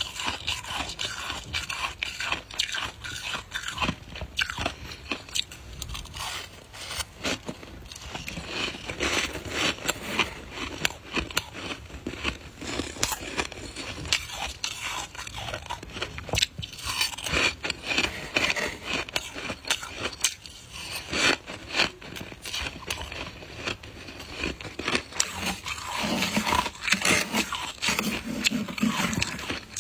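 Close-miked biting and chewing of soft white ice: continuous crunching made of many small, irregular crackles.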